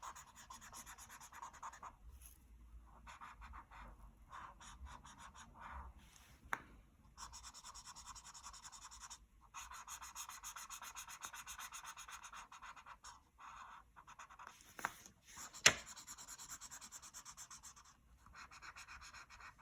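Colouring on paper: fast back-and-forth scratchy strokes of a colouring tool filling in a section, in runs of several seconds with short pauses. A sharp tap about two-thirds of the way through is the loudest sound.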